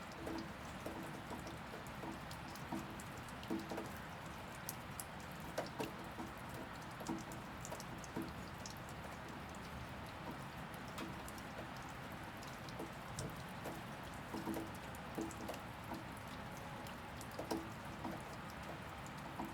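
Steady rainfall with irregular heavier drips falling close by, some of them landing with a short low plunk.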